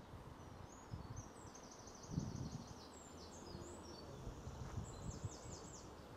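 Small birds singing in short high trilled phrases, twice, over a low rumble of outdoor background noise with a soft thump about two seconds in.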